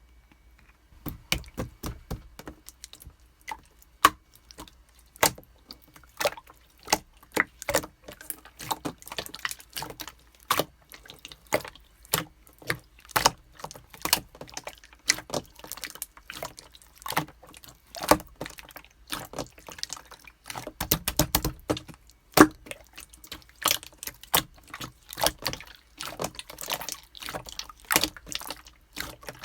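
Clear slime being squeezed, stretched and poked by hand, giving a run of irregular wet clicks and small air-bubble pops, several a second, starting about a second in.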